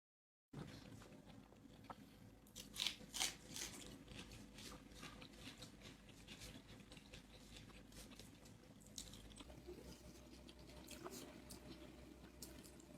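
Close-up chewing and crunching of food, with a few loud crunchy bites about three seconds in, then softer, irregular chewing and mouth sounds. It starts after a moment of dead silence.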